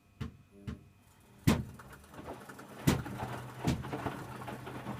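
Electrolux W455H commercial washing machine running its wash cycle: a few sharp knocks, the loudest about a second and a half in, and a steady low motor hum that sets in about halfway.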